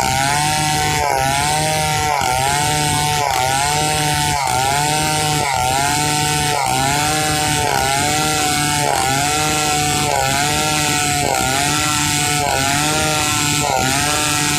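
Stihl 070 two-stroke chainsaw running under load, ripping pule wood lengthwise into boards. Its engine pitch dips and recovers about once a second as the bar works through the cut.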